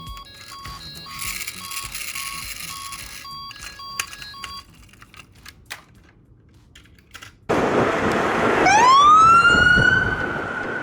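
Toy emergency vehicle's electronic sound effects: a run of short repeating beeps, then a quiet pause with a few clicks. After that comes a sudden loud rush of noise and a siren that wails upward in pitch and holds high.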